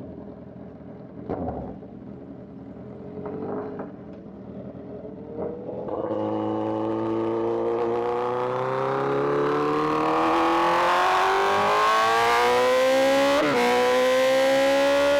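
Sport bike's inline-four engine, fairly low for about six seconds, then opened up sharply. Its note climbs slowly and steadily as the bike accelerates hard.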